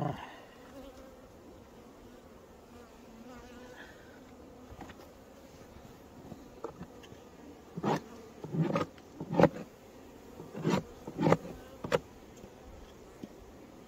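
Honeybees buzzing steadily around an opened or uncovered hive. In the second half comes a quick series of about seven sharp knocks and thumps, the loudest in the middle of the run.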